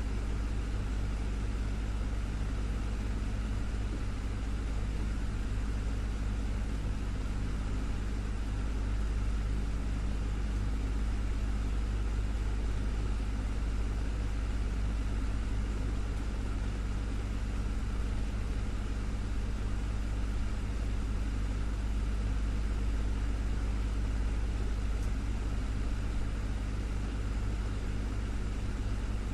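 Desktop fan running steadily: a constant low motor hum under a whir of air.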